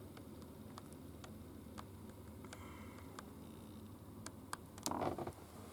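Steady rain falling, with scattered drips ticking sharply at irregular moments, and a brief louder noise about five seconds in.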